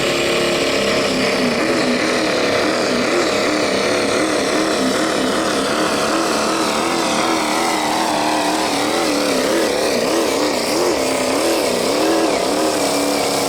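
Unlimited-class diesel pulling truck's engine running hard at high revs, its pitch wavering up and down.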